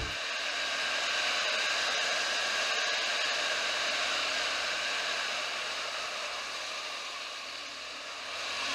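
Steady rushing noise of wind and road recorded on a moving motorbike, easing off slightly near the end.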